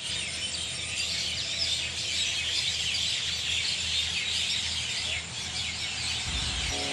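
Many small birds chirping and twittering together in a dense, continuous chorus.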